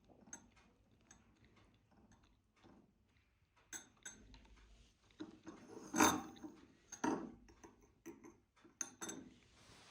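Light clicks and clinks of household items being handled, with a louder knock about six seconds in and another about a second later.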